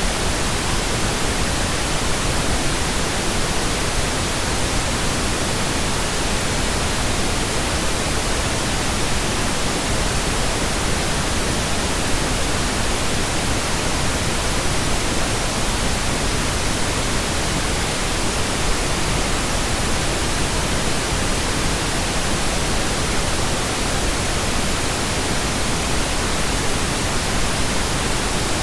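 Steady synthetic pink noise generated in software: an even, unchanging hiss spread across all pitches, with no tones or events.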